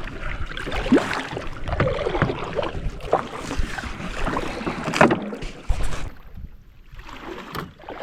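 Kayak paddling: irregular water splashes and drips from the paddle strokes, quieting down about six seconds in.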